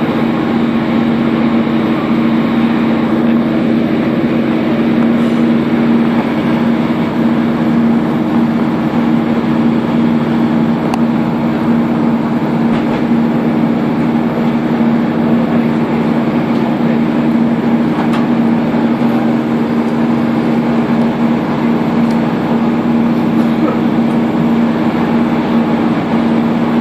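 Passenger train running at speed, heard from inside the carriage: a steady drone with two held tones over the even rumble of the wheels on the track.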